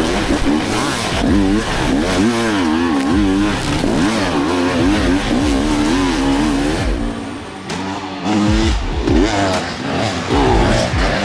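Several dirt bike engines revving hard, their pitch rising and falling again and again as the riders work the throttle, with a short easing off about seven seconds in before they rev up again.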